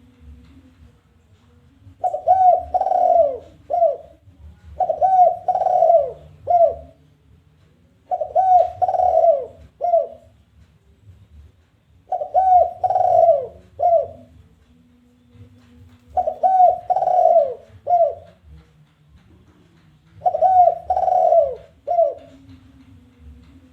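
Spotted dove (tekukur) cooing, repeating its challenging call six times at roughly four-second intervals. Each phrase is a quick run of three or four rounded coos.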